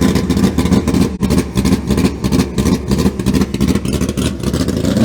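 A Stock/Super Stock drag car's V8 engine idling nearby with an uneven, pulsing beat.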